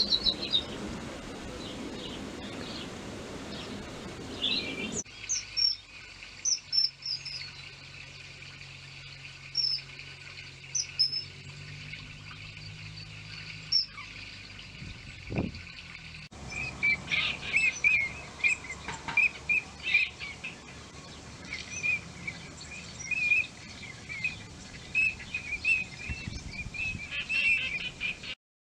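Wild birds calling and chirping in short, quick notes, in three stretches whose background changes abruptly about five and sixteen seconds in; in the last stretch the chirps come rapidly, several a second.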